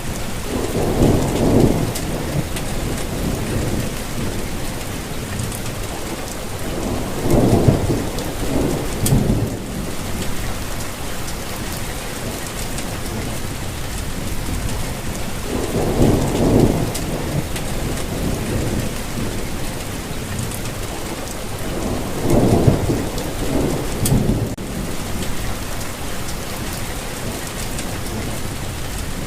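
Steady rainfall hissing, with a low rumble of thunder swelling up four times, several seconds apart.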